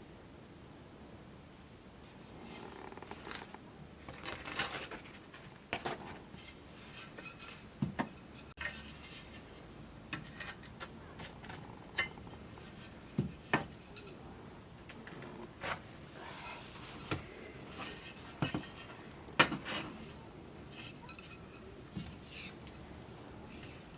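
Dishes and metal utensils being handled: scattered clinks, knocks and scrapes at irregular intervals, with one sharper knock near the end.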